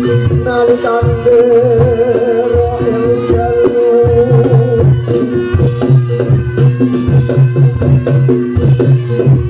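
Live Javanese barongan accompaniment music: a traditional ensemble with steady hand-drum strokes and metal-percussion tones, and a wavering melodic line over them for the first half.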